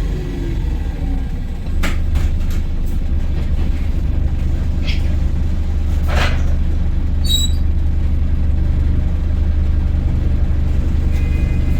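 Volvo B5LH hybrid bus's drivetrain heard from inside the bus while under way: a steady low rumble, with a falling whine in the first second. Interior rattles and clicks around two seconds in, and a brief hiss about six seconds in.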